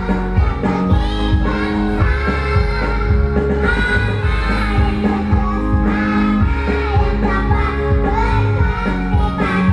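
Children's choir singing a march in unison over a loud backing music track with a steady beat.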